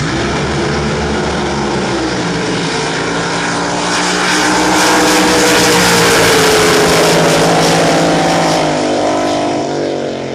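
Racing drag boat engine at full throttle down the course. Its pitch climbs, then sweeps down as the boat passes; the sound is loudest in the middle and fades near the end.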